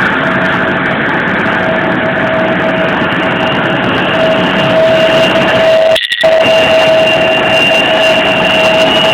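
Jet airliner's turbofan engines running at taxi power, very loud: a steady rush with a high, steady whine over it. The sound cuts out for a moment about six seconds in.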